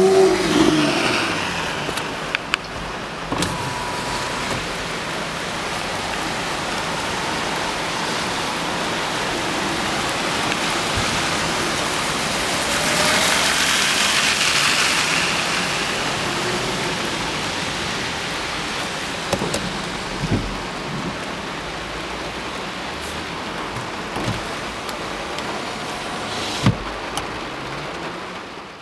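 Heavy rain and wet-road hiss heard from inside a moving car, a steady noise that swells a little about halfway through. An engine revs up briefly right at the start, and a few light clicks come near the end.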